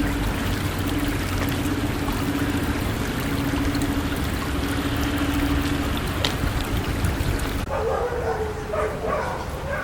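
Rushing water with a steady hum under it, then, after an abrupt cut near the end, dogs yipping and whining.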